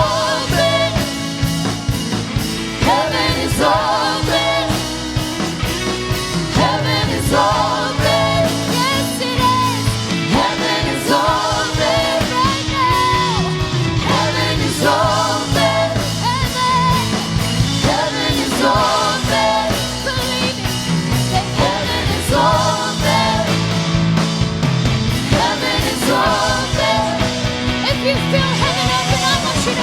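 Worship song with a rock band and wordless or unclear singing over sustained chords and a steady beat.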